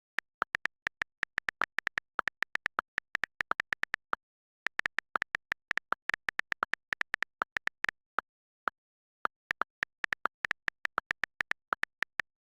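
Keyboard typing: quick, irregular key clicks in runs, with two short pauses.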